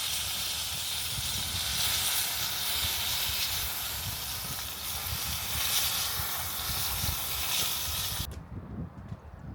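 Food sizzling hard over an open wood fire: a loud, steady hiss with crackle beneath. It cuts off abruptly about eight seconds in, leaving a few quieter clicks.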